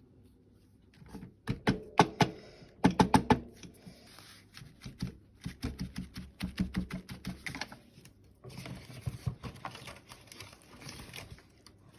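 A few sharp clicks and knocks of craft supplies handled on a tabletop, then a long run of quick dabbing and rubbing of a Distress ink blending tool on paper.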